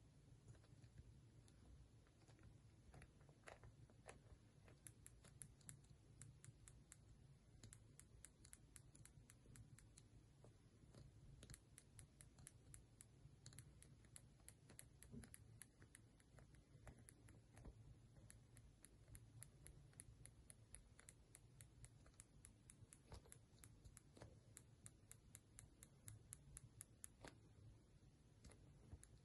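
iPhone 13 Pro back glass clicking and popping in its housing, many faint, short, irregular clicks: a defect in the back glass.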